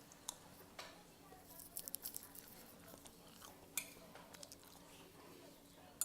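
Close-up mouth sounds of someone chewing buldak instant ramen noodles: scattered wet clicks and smacks, with a quick cluster about two seconds in and single sharp ones near four and six seconds.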